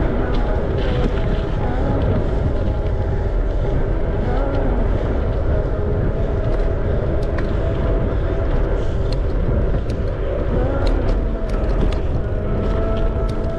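Steady rumble of wind on the microphone and rolling noise from a moving bicycle, with a few faint steady tones and scattered light clicks.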